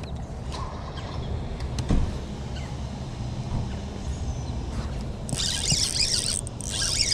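Boat motor running steadily as a low hum, with a few light clicks; from about five seconds in, a loud hissing, rushing burst rises over it.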